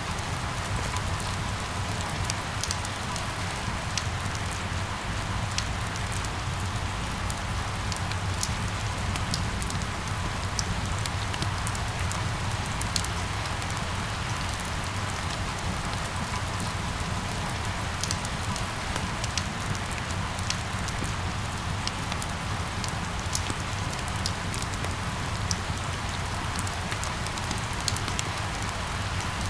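Steady rain falling, with scattered sharp ticks of single drops, over a low steady rumble.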